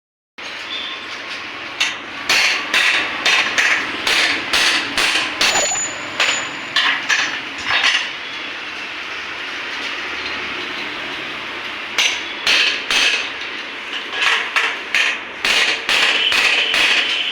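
A hammer striking metal in two runs of quick, sharp blows with a pause between them, as when a new steering-head cone set is knocked into place on a motorcycle.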